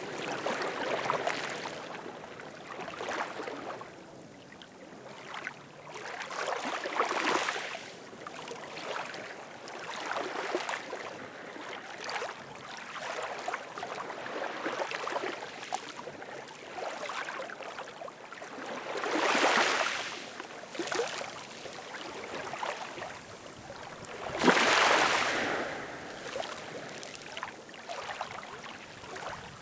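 Ocean waves washing in and drawing back, one surge every few seconds. The two loudest break about two-thirds of the way through and again some five seconds later.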